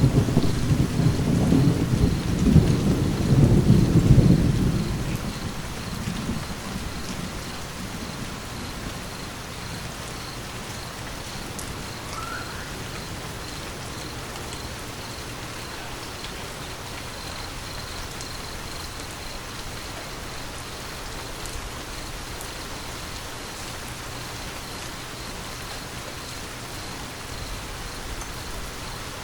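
Thunder rumbling low and loud at first, dying away over about five seconds, over steady rain that keeps falling evenly afterwards.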